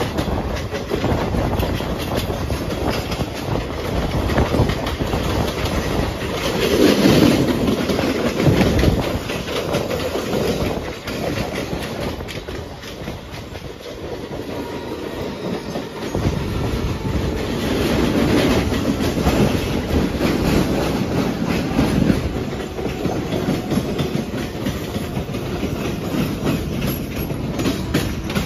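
Mumbai suburban electric local train running, heard from an open doorway: a steady clickety-clack of wheels over rail joints with rumbling noise, swelling louder twice.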